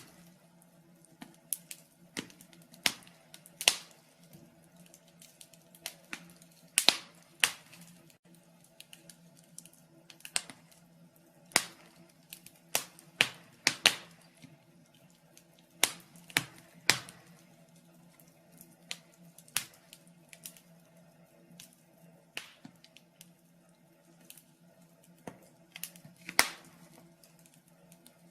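A wood fire crackling in a fireplace: irregular sharp pops and snaps, a few of them louder, with a faint steady hum underneath.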